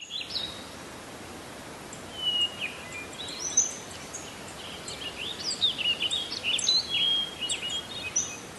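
Birds chirping and calling over a steady hiss, with many short rising and falling chirps from about two seconds in.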